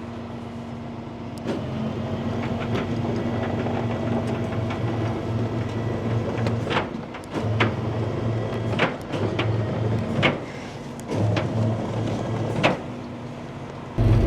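Tow truck's hydraulic lift running in several stop-start bursts over the truck's steady idle, each burst ending with a metallic clunk.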